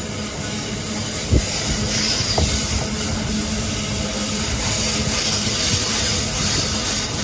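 Freight train passing: a steady rolling noise of wagons on the rails, with two sharp knocks about a second and a half and two and a half seconds in.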